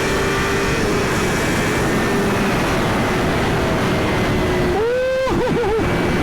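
Suzuki GSX-R1000 inline-four engine running steadily at highway speed under heavy wind rush. About five seconds in, the revs jump, then dip and rise several times in quick succession before settling.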